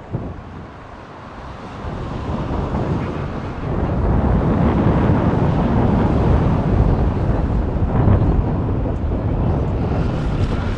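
Aircraft engine noise that grows louder over the first few seconds and then holds, mixed with wind buffeting the microphone.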